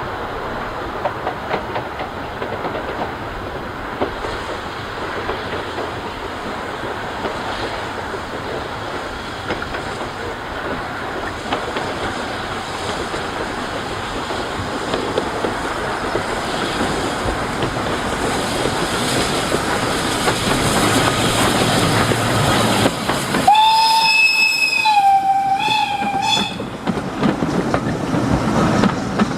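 Hunslet Austerity 0-6-0 saddle tank steam locomotive approaching with its train, the exhaust and wheels on the rails growing steadily louder. Near the end the steam whistle sounds once for about three seconds.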